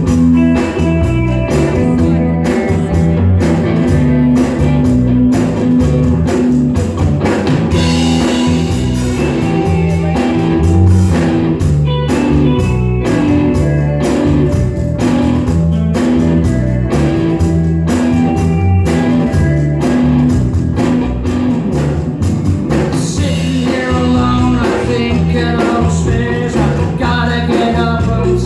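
Live rock band playing: electric guitars over bass guitar and a steady drum beat.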